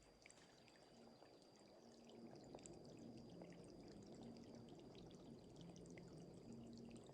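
Near silence: a faint background hiss with a few scattered faint ticks.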